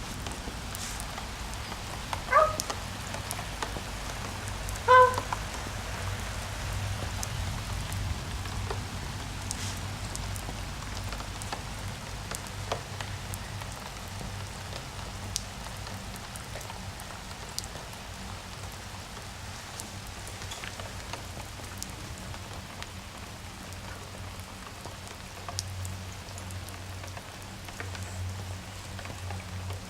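Steady rain falling, with scattered drops tapping close by. Two short, high-pitched cries about two and a half and five seconds in stand out as the loudest sounds.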